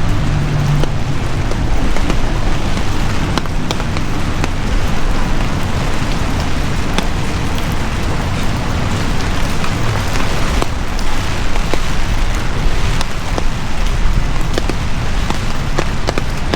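Heavy rain falling steadily, a dense hiss with many sharp drop impacts close by. A low hum fades out in the first second.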